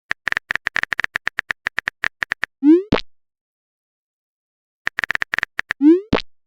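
Chat-app sound effects: a quick run of phone-keyboard typing clicks, about eight a second, ending in a short rising pop as a message is sent. After a pause of about two seconds a shorter run of clicks and another pop follow near the end.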